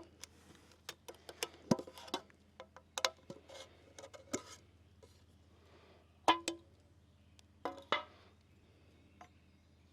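Irregular clicks, taps and knocks as a container of rubberized asphalt coating is handled and opened. A few of the knocks ring briefly like struck metal, loudest a little past the middle.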